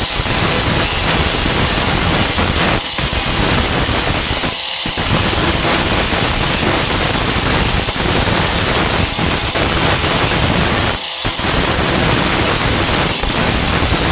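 Warrior 4-1/2 in. angle grinder with a Type 27 grinding disc grinding steel on a truck tailgate, loud and continuous. It dips briefly twice, about five and eleven seconds in.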